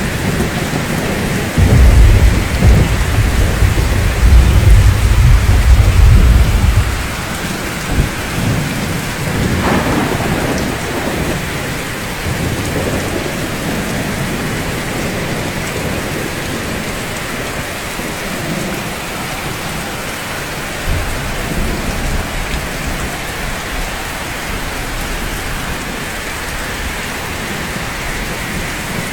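Steady rainfall with rolling thunder: a loud low rumble starts about two seconds in and lasts about five seconds, and a fainter rumble comes about two-thirds of the way through.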